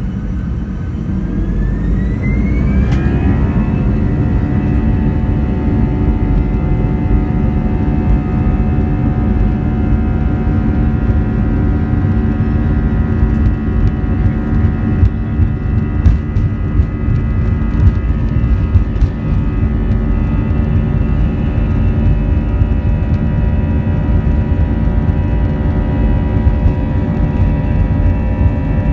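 Airbus A320neo turbofan engines spooling up to takeoff thrust, heard from inside the cabin: a whine rises over the first three seconds or so, then holds steady over a loud rumble of the takeoff roll.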